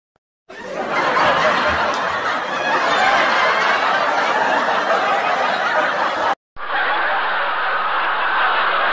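Canned audience laughter from a laugh track: one crowd-laugh clip starting about half a second in and running about six seconds, a brief break to silence, then a second crowd-laugh clip.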